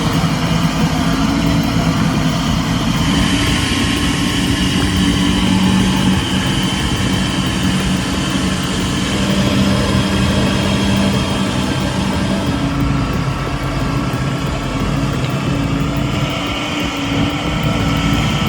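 Heavy-haul truck's diesel engine running steadily under load, a deep continuous drone.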